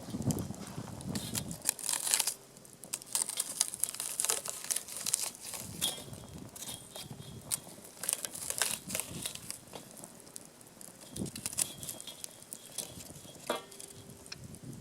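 Dense, irregular crackling and crinkling of dry kindling in a wood campfire, with a few soft low knocks near the start and again about eleven seconds in.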